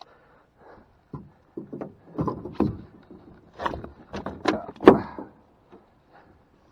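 Irregular knocks, thumps and scrapes in clusters. The loudest is a thump about five seconds in.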